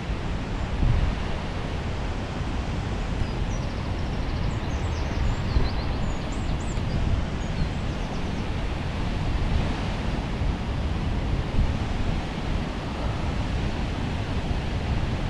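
Steady rushing roar of High Force waterfall, mixed with wind buffeting the microphone. A few faint high bird chirps come a few seconds in.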